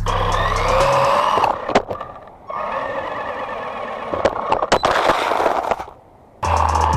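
Small electric 1:18-scale RC buggy, a Hiaboxing HBX Ratchet, driving: its motor whine rising and falling with the throttle, with sharp clicks and knocks of the car bouncing on concrete, one loud knock about two seconds in. Background music with a steady beat is heard for about the first second and again near the end.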